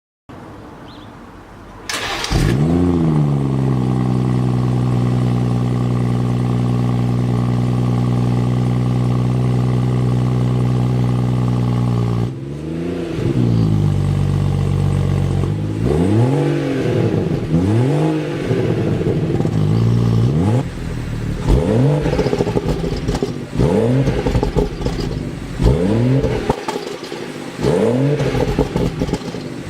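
BMW 340i's turbocharged 3.0-litre inline-six on its stock exhaust, cranked and catching from cold about two seconds in with a short rev flare, then settling into a steady fast cold idle. From about twelve seconds in it is blipped repeatedly, each rev rising and dropping back to idle.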